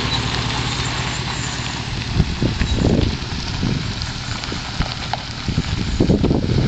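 Muffler-deleted exhaust of a 2004 Ford F-150's 5.4-litre Triton V8 running with a steady low drone. Uneven low pulses break through from about two seconds in and come thicker near the end.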